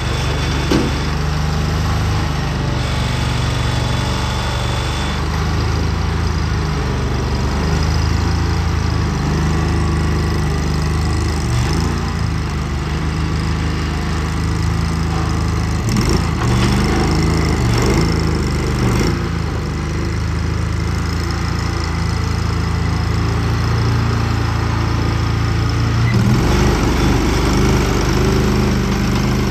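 The Rato 739cc gas engine of a Hurricane HRC700 mini compact track loader running steadily, its speed dipping and rising a few times about halfway through and shifting again near the end.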